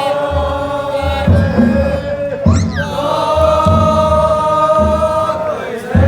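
Festival float bearers chanting together in long held notes over a large taiko drum beating steadily, about one heavy boom a second with lighter strokes between.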